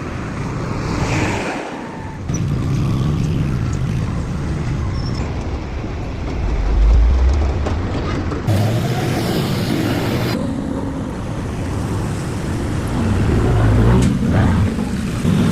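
Truck engine running with mechanical workshop noise, heard in several short clips joined by abrupt cuts.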